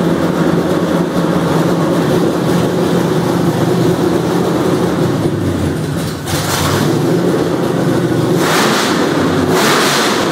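Carbureted 383 stroker small-block Chevy V8 running on its first startup, a steady engine note. Three short rushing bursts come through about six, eight and a half and nine and a half seconds in.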